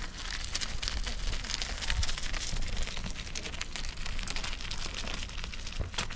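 Rain falling and pattering on a surface: a dense, irregular patter of drops.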